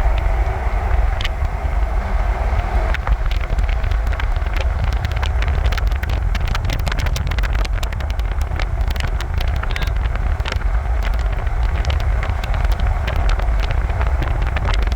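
A car in motion: a steady low road-and-engine rumble, with many small, scattered ticks and clicks over it.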